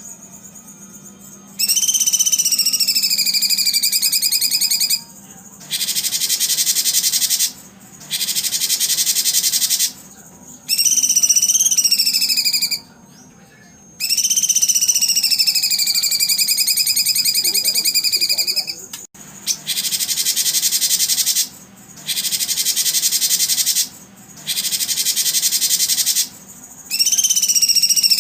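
Songbird song in repeated phrases about two to three seconds long with short gaps. Wavering whistled notes alternate with bursts of fast, dense buzzy trill.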